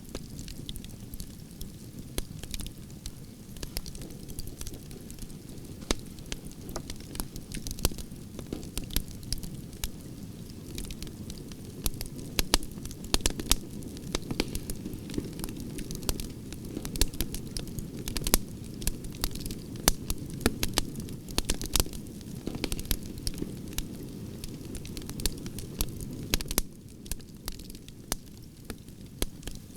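Wood fire of burning branches crackling, with frequent sharp pops and snaps over a steady low rumble of the flames.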